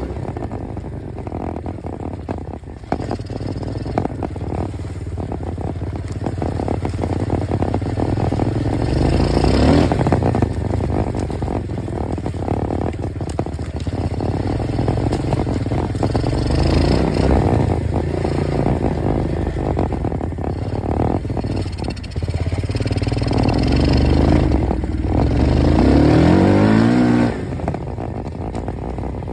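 Dirt bike engine running and revving under way, with clattering and scraping mixed in. Near the end the revs climb steadily, then drop off suddenly.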